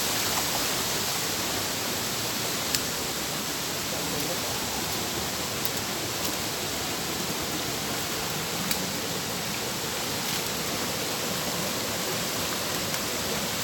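Waterfall rushing close by: a steady, even roar of falling water, with a couple of faint ticks.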